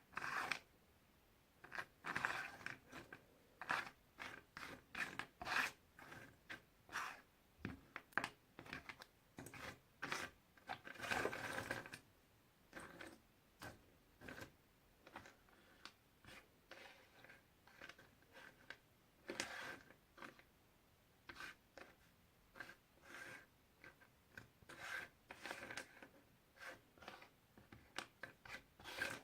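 Puzzle pieces being handled, slid and pressed into place: many short, irregular soft clicks and rubs, with a longer rustling stretch about eleven seconds in.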